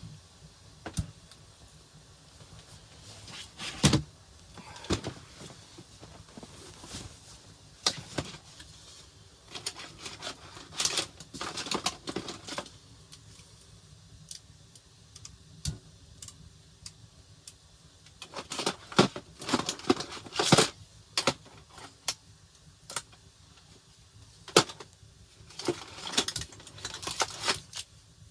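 Irregular clatter: scattered clicks, knocks and rustling of objects being handled, in busy clusters with short quiet gaps between.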